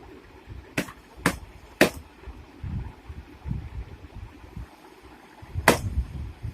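Three sharp knocks about half a second apart, then a fourth one about four seconds later, over an uneven low rumbling noise.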